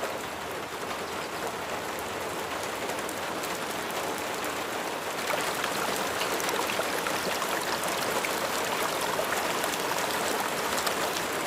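Steady rain falling, with scattered drops ticking, growing a little louder about halfway through.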